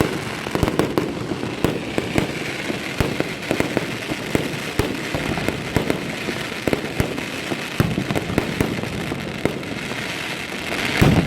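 Fireworks display going off: many sharp bangs one after another over continuous crackling, with a louder burst near the end.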